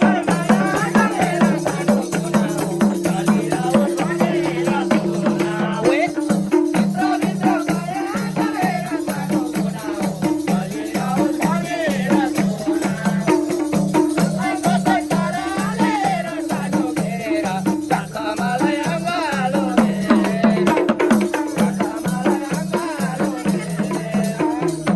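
Live Nepali folk music played without singing, between dohori verses. A steady, pulsing rhythm is carried by hand percussion and shaken, rattle-like strokes under a wavering melody.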